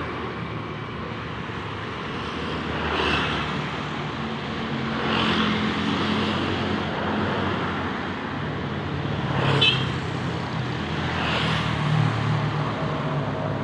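Road traffic: motor vehicles running and passing, with a low engine hum that rises and falls and a few brief swells of noise.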